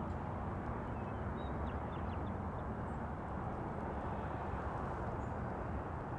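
Steady low outdoor rumble with a few faint, high bird chirps between about one and three seconds in.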